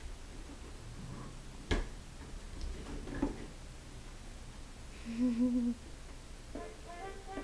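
A short hummed tone, pulsing three times, about five seconds in. It follows a sharp click near two seconds and a fainter one a little after three seconds.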